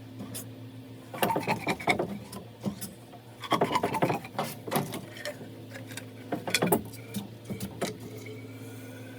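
Irregular scraping, rubbing and clicking, coming in short clusters, over a steady low hum.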